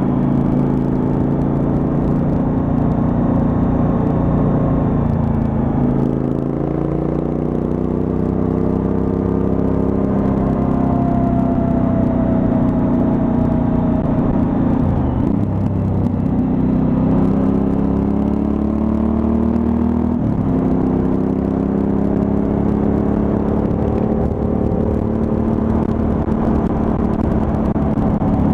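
Suzuki V-Strom 1000's V-twin engine pulling on the road, its pitch climbing steadily in each gear and dropping with three upshifts, about 6, 15 and 20 seconds in.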